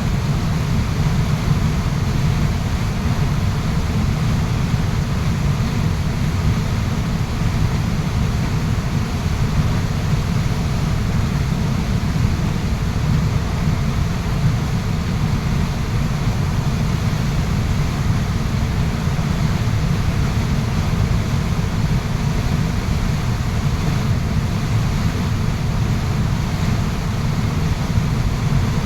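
Waterfall rushing: a steady, deep wash of falling water, unchanging throughout.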